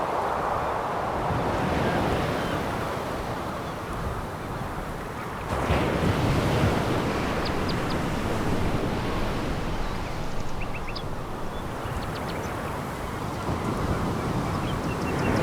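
Sea waves breaking and washing over a pebble beach, rising and falling in swells, with a sudden surge about five and a half seconds in and another near the end. Faint high clicks are scattered through the middle.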